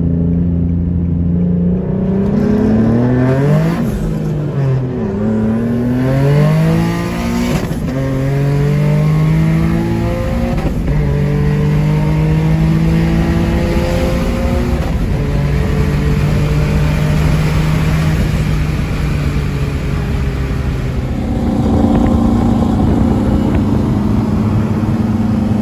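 Nissan 370Z's VQ-series V6 engine under load, revving up in quick rising steps in the first few seconds, then holding a series of steady pitches, each a little lower, and rising again near the end.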